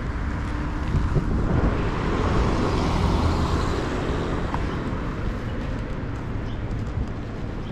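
Motorcycle riding through road traffic: engine running with rushing wind and road noise, swelling a couple of seconds in and easing off after.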